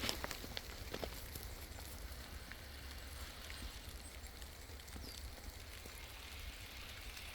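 Footsteps crunching in deep snow, a few steps in the first second, then a faint steady hiss.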